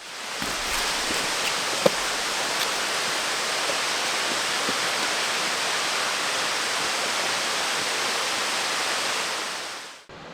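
Steady rush of falling creek water, fading in at the start and fading out just before the end, with a single light knock about two seconds in.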